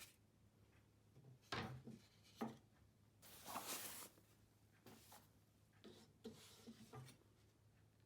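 Quiet handling sounds: a few light knocks, a brief rustle about three and a half seconds in, then small taps.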